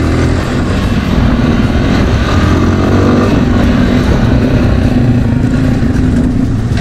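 Motorhead X Torque 250's air-cooled 250 cc single-cylinder engine running steadily under the rider while the bike moves along the road.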